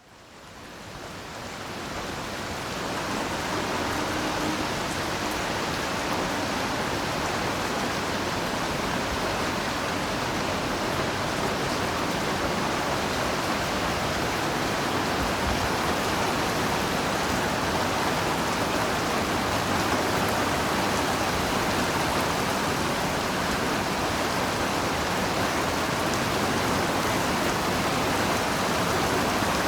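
Heavy rain falling steadily as a dense, even hiss, fading in from silence over the first few seconds.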